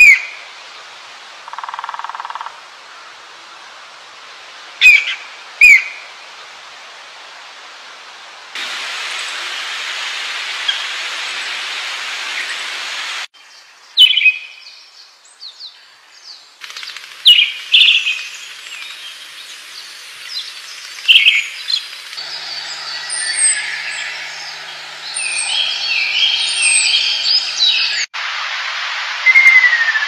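Calls and songs of several different wild birds in turn: loud, sharp chirps a few at a time, then a stretch of quicker chirping and trilling, and a falling whistled call near the end. The background hiss changes abruptly several times between clips.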